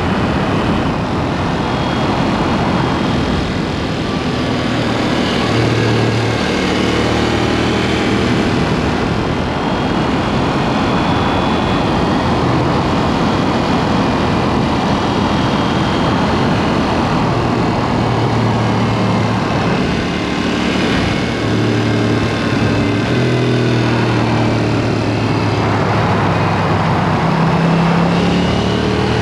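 KTM 790 Duke's parallel-twin engine running under way through an aftermarket SpeedPro Cobra exhaust, its pitch rising and falling with the throttle and climbing near the end as the bike accelerates.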